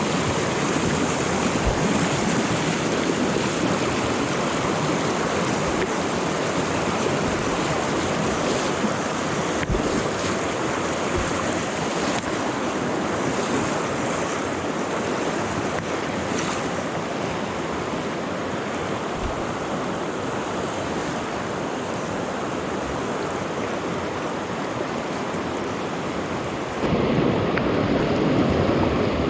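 Steady rush of flowing stream water. It grows louder and deeper near the end.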